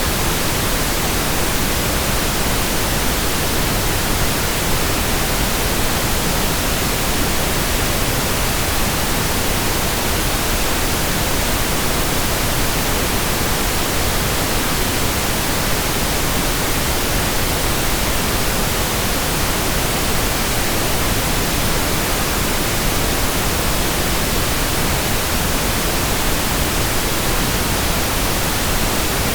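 Pink noise: a steady, even hiss across the whole range, unchanging throughout.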